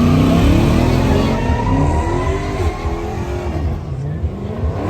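Car engine revving at a car meet, its pitch rising and falling several times, dipping lowest a little before the end and climbing again.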